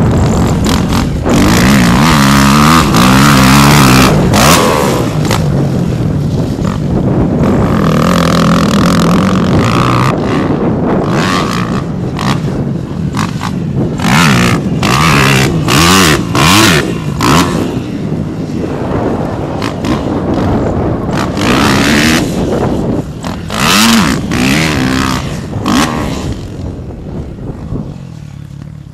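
Kawasaki KX250F four-stroke motocross bike engine revving up and falling back again and again, with frequent short bursts of noise over it; it fades away near the end.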